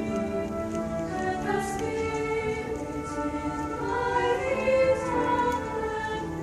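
School choir singing sustained notes in several parts, with instrumental accompaniment.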